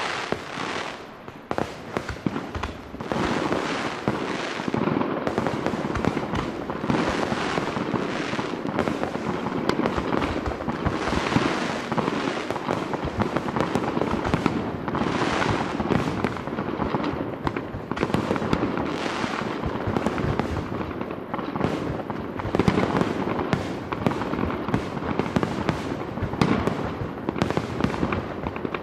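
Grand-finale fireworks: a dense, continuous barrage of overlapping bangs and crackling with no break.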